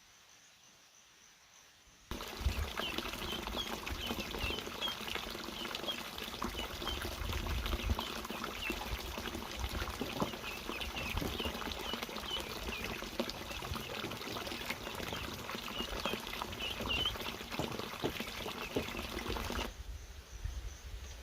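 Water pouring or trickling, with many small high chirps and light clicks over it. It cuts in abruptly about two seconds in and stops abruptly near the end, over a faint bed of insects.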